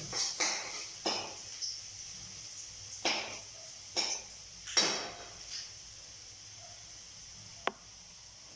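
Stirring in a hot pan: about six strokes of a utensil in the first half, each followed by a brief sizzle, then a low steady hiss and a single sharp click near the end.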